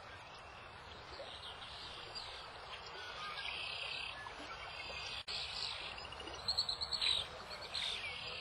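Small birds chirping in short, quick runs of notes over the steady rush of a stream, with the loudest run of chirps late on.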